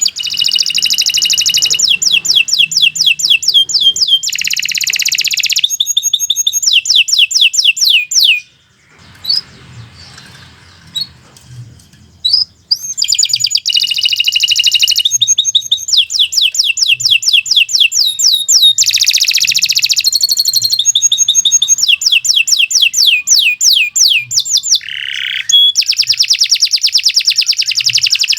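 Domestic canary singing a long song of rapid trills and rolling phrases, breaking off for a few seconds about a third of the way in and then resuming.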